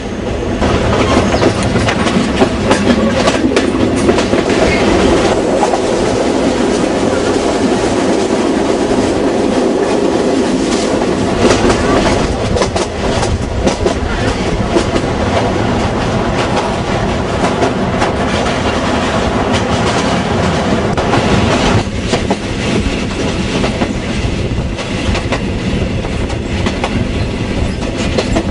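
Passenger train running along the track, heard from an open carriage window: a steady loud rumble, with the wheels clacking over the rail joints.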